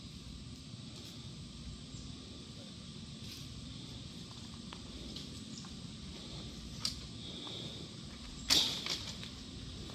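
Quiet outdoor background with two sharp knocks in the latter part, the second one louder.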